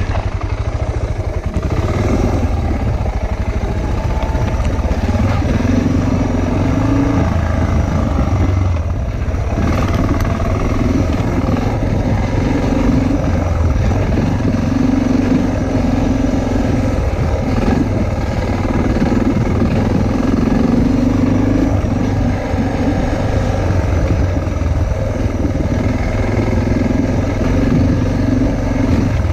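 Motorcycle engine running while riding, its note swelling and easing every few seconds.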